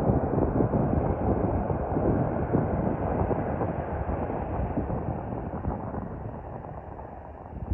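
Twin turbofan engines of an Eclipse 500 light jet, a broad steady rush that slowly fades as the jet draws away.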